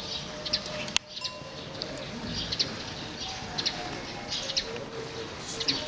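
Small birds chirping, many short sharp high calls scattered over a steady outdoor background, after a sudden click about a second in.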